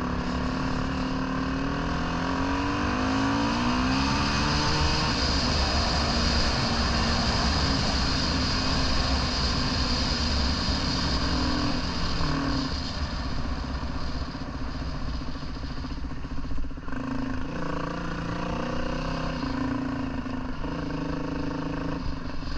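Dirt bike engine running under way as it is ridden, its pitch rising over the first few seconds and then changing in steps as the throttle and gears change, with a short drop in level about three-quarters of the way through.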